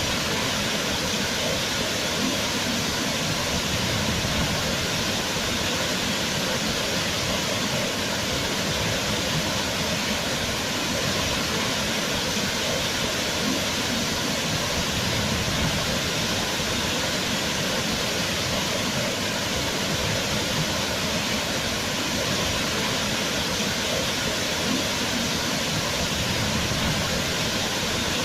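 Waterfall: water falling and splashing in a steady, loud rush with no change.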